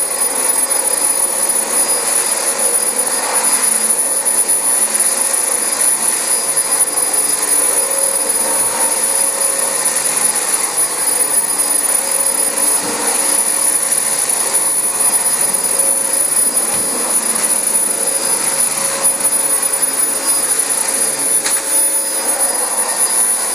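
Dyson DC25 upright vacuum cleaner running steadily over carpet, its motor giving a loud, even high-pitched whine.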